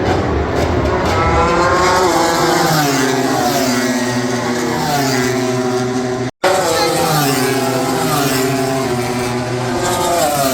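Racing motorcycles going past on the circuit, several engines at high revs whose pitch repeatedly falls as each bike goes by and shifts down. The sound cuts out for a split second just past six seconds.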